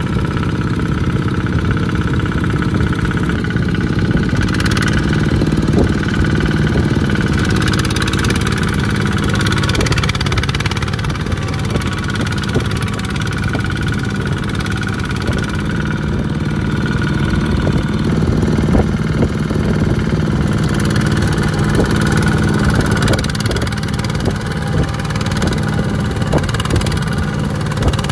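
Small tractor engine running steadily, its pitch shifting a little now and then, with occasional light knocks.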